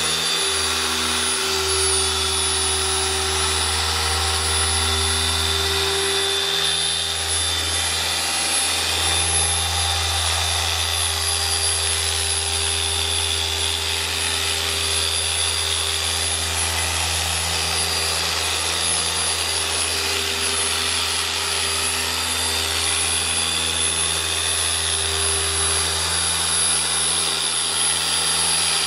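Electric car-paint polisher running steadily on truck paint: a constant motor hum over a wide hiss, with no change in speed.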